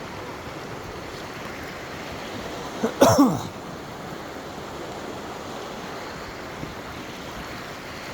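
Steady rush of a stream flowing over rocks. About three seconds in, a sharp scuff and a short grunt falling in pitch from a person clambering down the bank.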